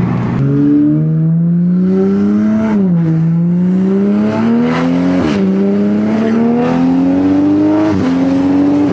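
2020 Toyota Supra's B58 turbocharged inline-six on a straight-piped exhaust, accelerating hard through the gears: the engine's pitch climbs steadily, then drops sharply at each of three upshifts about 3, 5 and 8 seconds in.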